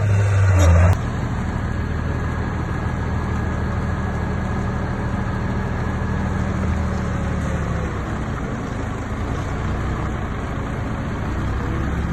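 Diesel engine of a Komatsu D58P bulldozer running steadily under work. A louder low engine note cuts off suddenly about a second in, and the engine then runs on at a slightly lower level.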